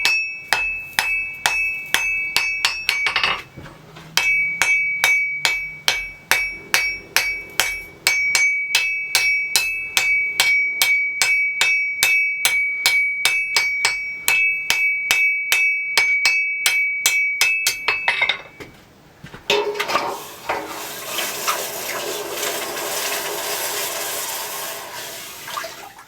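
Hand hammer striking hot steel on an anvil, about three blows a second, each with a bright metallic ring; the hammering pauses briefly a few seconds in and stops a few seconds before the end. A steady hiss takes over for the last several seconds.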